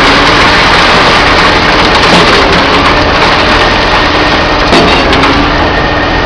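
Truck-mounted concrete pump running loud and steady while pumping concrete, its engine noise filling the sound, with a few knocks about five seconds in.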